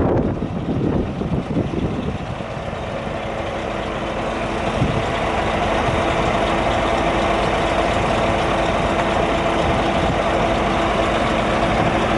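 Scania R 480 truck's 13-litre straight-six diesel engine running steadily at idle, a little louder after the first couple of seconds.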